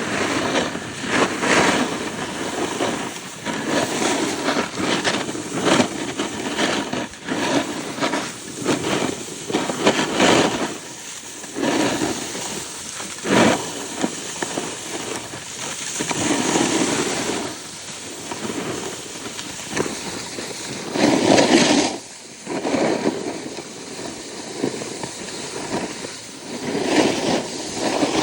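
Snowboard sliding and scraping over snow, a hissing noise that swells and fades in irregular surges, loudest about three quarters of the way through.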